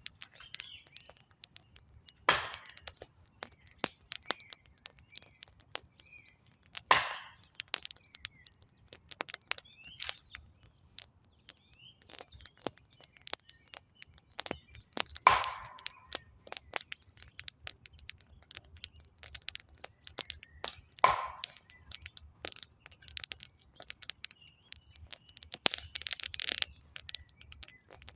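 Wood campfire crackling: a steady run of small ticks and snaps, with four louder pops spread through and a short hiss near the end. Birds chirp faintly in between.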